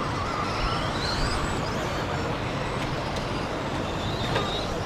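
Radio-controlled stadium trucks running on the race track: a steady mechanical noise, with a faint rising motor whine about a second in.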